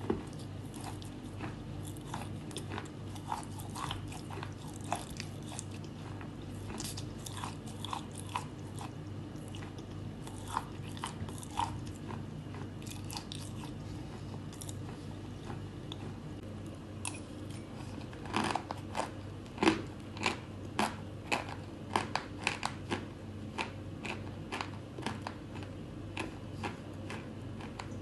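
Close-miked crunching of chalk being bitten and chewed: a scattered string of sharp, crisp cracks that thickens into a quicker run of louder crunches about two-thirds of the way through. A steady low hum lies underneath.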